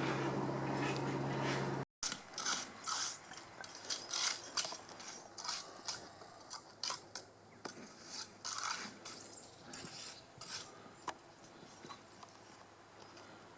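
Irregular scrapes and sharp clinks of hand tools working on masonry. Before them, a steady machine hum cuts off abruptly about two seconds in.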